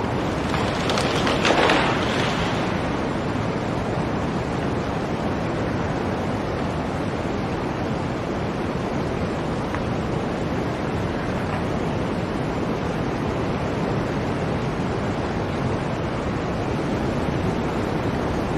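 Blizzard wind blowing steadily, with a stronger gust swelling and fading about a second or two in.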